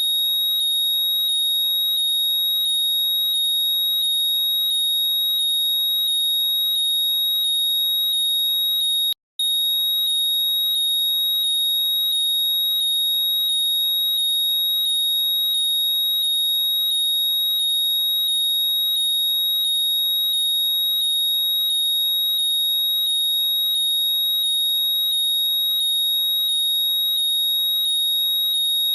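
AirPods Find My locating sound: a loud, high steady tone with short rising chirps repeating two to three times a second. It cuts out for an instant about nine seconds in.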